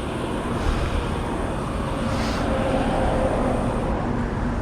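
Traffic noise from a motor vehicle passing on the road, its engine hum strongest in the second half, over a steady low rumble of wind and road noise on the move.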